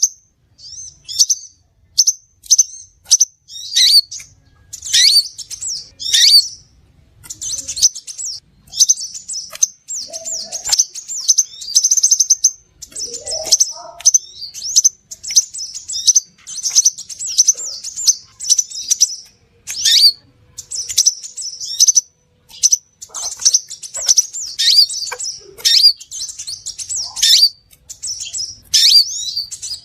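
Crimson sunbird (sepah raja) calling: rapid, high-pitched chirps and twittering trills packed close together, with some short notes sliding down in pitch.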